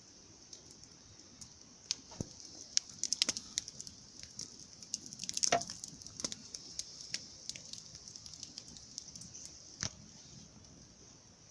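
Campfire crackling: scattered sharp pops and snaps over a steady high hiss, with a dense flurry of crackles about five and a half seconds in.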